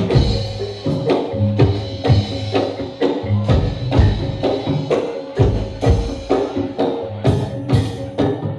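Live Javanese Reog / Jaran Dor ensemble music: drums and struck, ringing percussion playing a steady, driving rhythm, with a heavy low drum beat about once a second.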